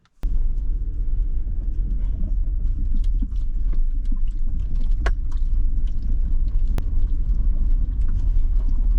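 Vehicle driving, a steady low rumble of engine and road noise, with scattered small clicks and knocks over it. It starts abruptly just after the beginning.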